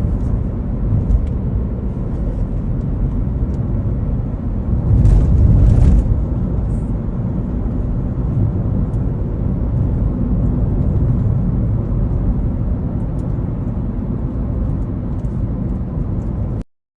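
Airliner cabin noise: a steady low rumble of engines and airflow, with a louder surge lasting about a second, about five seconds in. The sound cuts off abruptly near the end.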